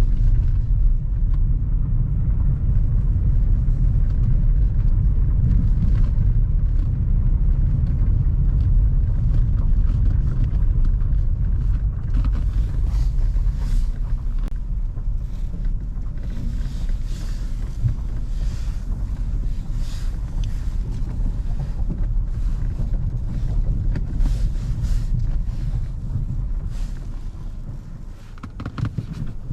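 A car driving: steady low rumble of engine and road, with scattered crackles over it from about twelve seconds in, easing off briefly near the end.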